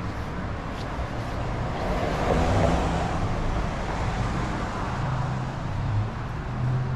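City street traffic: a car passes, its tyre and engine noise swelling to a peak about two and a half seconds in and then easing, over a steady low engine hum.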